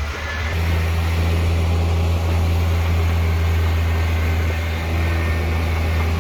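Diesel engine of heavy earthmoving equipment running with a steady deep drone, which gets louder and fuller about half a second in.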